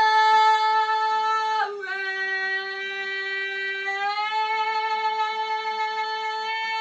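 Female voice singing the song's closing long-held notes: one note, a step down about 1.7 s in, then up to a high note about 4 s in that is held on.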